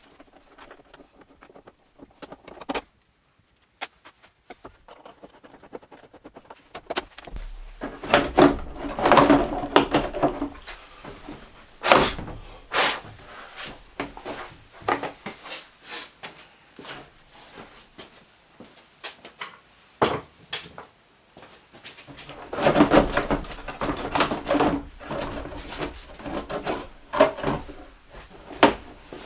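Irregular knocks, clicks and clattering of hand work, busiest from about eight seconds in and again from about twenty-three seconds, with a few sharp single strikes between.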